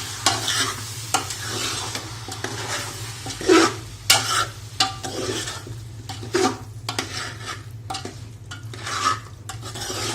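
A spoon scraping and stirring chicken curry masala in a frying pan in irregular strokes, with the chicken, spices and curds sizzling in oil. A steady low hum runs underneath.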